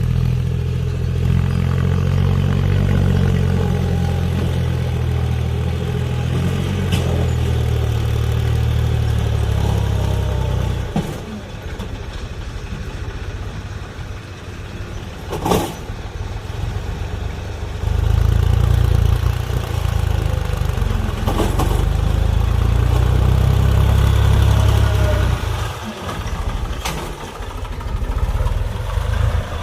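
HMT 1022 tractor's diesel engine running with a deep, low drone. It is loud for the first ten seconds or so, drops back to a lighter run, then comes on loud again from about eighteen to twenty-five seconds in. There is a sharp knock about fifteen seconds in.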